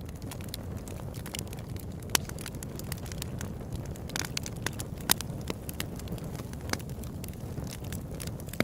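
Open-air campfire burning: a steady low rush of flames with frequent sharp crackles and pops, a few of them louder snaps.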